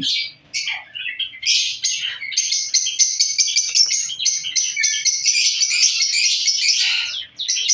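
Many pet lovebirds chirping in a dense, continuous high-pitched chatter. It dips briefly just after the start and again just before the end.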